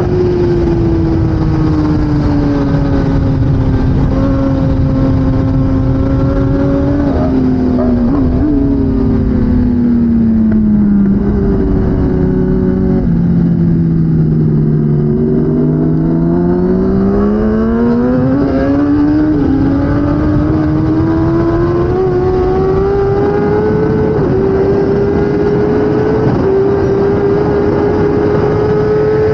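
2016 Kawasaki ZX10R inline-four superbike engine at racing speed. Its pitch steps down through several downshifts as the bike brakes for a slow corner, bottoms out about halfway through, then climbs again through upshifts as it accelerates away.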